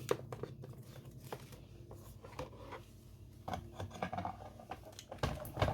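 Items and packaging from an unboxed hair dryer being handled: scattered light taps, clicks and paper rustles, with a couple of louder knocks near the end.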